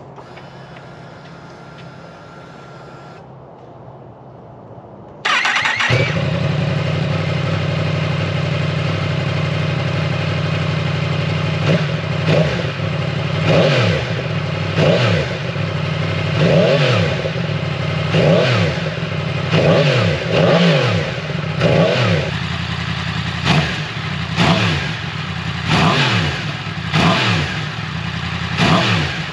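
2020 Yamaha MT-10's crossplane inline-four, breathing through a freshly fitted Arrow slip-on exhaust, starting suddenly about five seconds in after a faint steady whine, then idling. From about twelve seconds in it is blipped again and again, roughly a dozen short revs, each falling back to idle.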